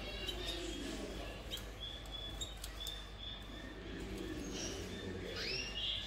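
Small cage birds chirping, with short held whistle notes and a quick rising call near the end.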